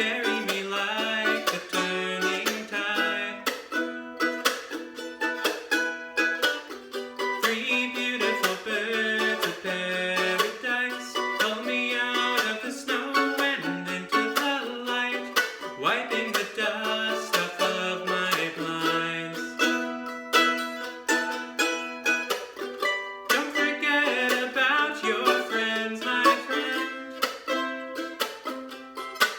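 Instrumental break of an acoustic song: a plucked string instrument picking a quick run of notes over changing chords.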